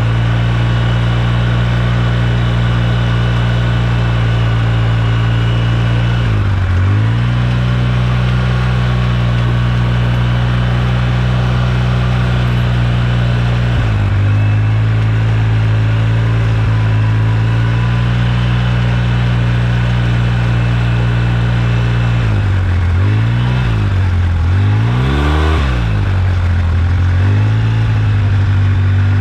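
2009 Polaris RZR 800 S's twin-cylinder engine running steadily. Its pitch dips briefly and comes back up about six and a half seconds in, again about fourteen seconds in, and several times in quick succession near the end.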